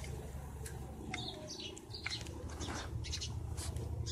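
Small birds chirping in short, repeated calls over a low steady hum.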